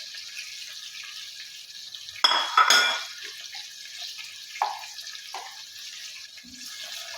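Chicken pieces frying in hot cooking oil with a steady sizzle. About two seconds in, a metal utensil clatters and rings against the pan, followed by two lighter knocks.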